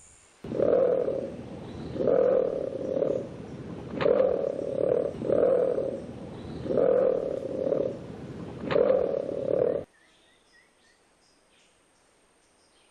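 A bird giving low, harsh calls, mostly in pairs, about five or six rounds in a row, which stop abruptly about ten seconds in.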